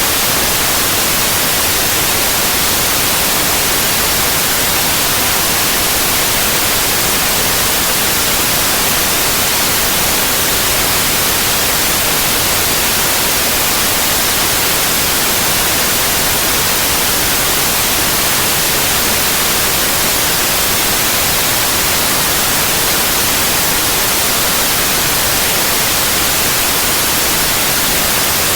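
Synthetic white noise: a loud, steady, even hiss across the whole range, brightest in the treble, with no change or interruption.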